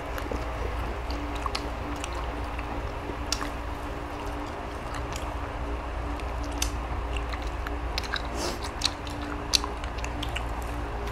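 People chewing and biting into boiled chicken, with scattered small clicks and smacks over a steady low hum.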